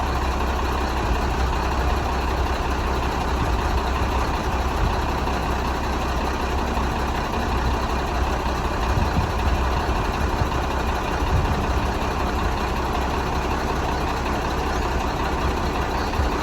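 Diesel engine of a 1991 BMY M930A2 military dump truck, a Cummins 8.3-litre inline-six, running steadily at an even speed with a deep, constant low rumble.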